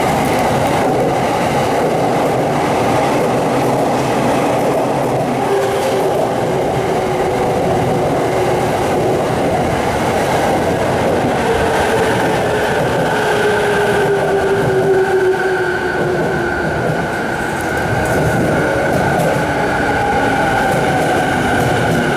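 Electric commuter train moving through the station, a loud, steady rumble of wheels on the rails. A whine that slowly shifts in pitch joins it from about twelve seconds in.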